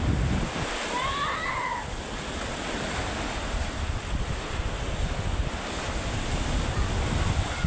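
Surf washing onto a beach, stirred up by an approaching typhoon, with wind buffeting the microphone. About a second in, a brief high call rises and falls.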